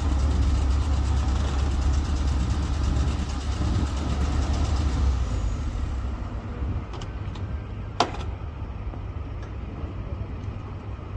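BMW 2002's four-cylinder engine idling with a low, steady rumble, cutting out about five seconds in. A single sharp click comes about eight seconds in.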